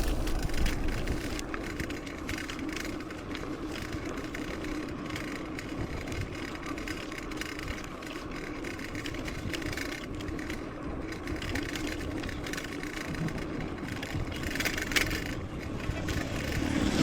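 Mountain bike being ridden over a trail: a steady hum from the tyres and drivetrain with frequent small rattles and knocks from the bike over rough ground.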